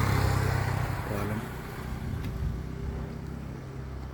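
A motor vehicle passing close by, its engine hum loudest at the start and fading away over the next second or two.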